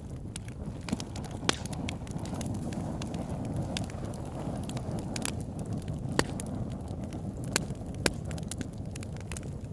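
Wood fire burning with a steady low rush of flames and frequent sharp crackles and pops, a few of them louder.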